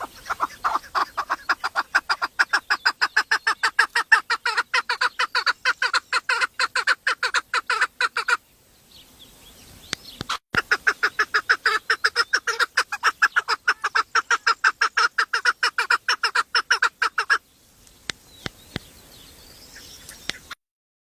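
A bird calling in two long runs of rapid, evenly repeated loud notes, about five a second, with a short pause between the runs.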